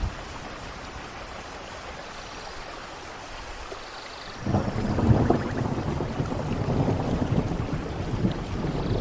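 Steady heavy rain falling, then about halfway through a deep rumble of thunder comes in suddenly and keeps rolling, becoming the loudest sound.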